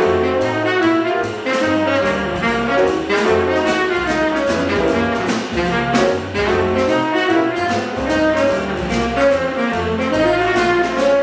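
Acoustic bebop jazz quintet playing: tenor saxophone and trumpet carry a fast line of quickly changing notes over piano, double bass and drum kit.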